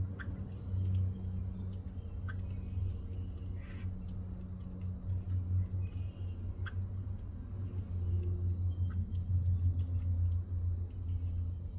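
Backyard ambience under a steady low rumble, with a faint continuous high whine. Small birds give a few very short, high chirps, and there are scattered brief clicks.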